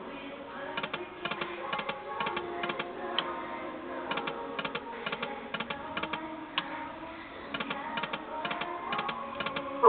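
Timber Wolf slot machine clicking and ticking in quick irregular runs during spins, over faint tones from the casino's machines.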